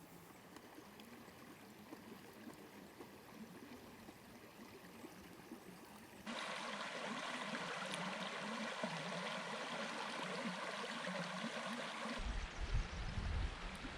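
Mountain stream running over rocks, a steady rush of water. It is faint at first and much louder from about six seconds in, and low rumbling gusts join near the end.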